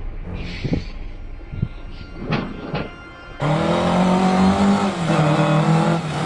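A motor vehicle's engine running at steady revs, cutting in abruptly about halfway through. Its pitch steps down once and then begins to fall near the end. Before it come a few faint, short knocks.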